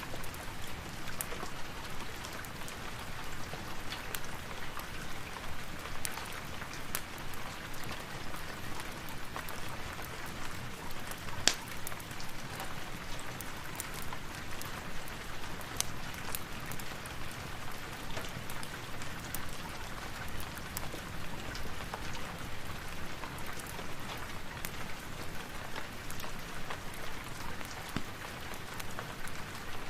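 Steady rain falling, with scattered sharp clicks through it and one louder click about a third of the way in.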